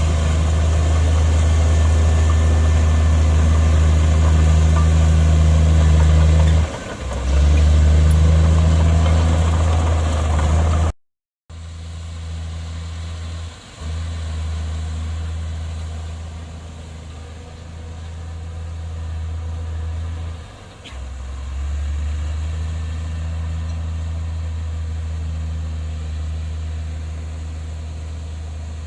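Heavy diesel engine of earthmoving machinery running with a steady low drone, dipping briefly a few times. The sound drops out for a moment about eleven seconds in and comes back quieter.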